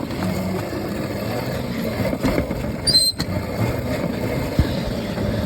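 Small modded Razor electric dirt bike being ridden: a steady run of motor, chain and tyre noise that sets in suddenly. There is a brief high squeak about three seconds in.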